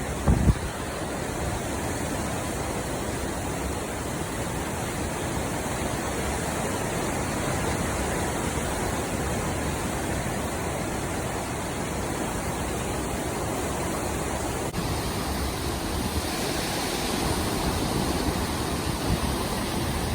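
Hurricane wind and heavy rain: a steady, even rush of noise, building slightly in the second half. A short low thump comes about half a second in.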